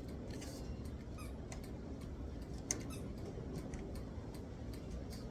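Scattered light clicks and ticks from handling assembly parts, with one sharper click about two and a half seconds in, over a steady low rumble.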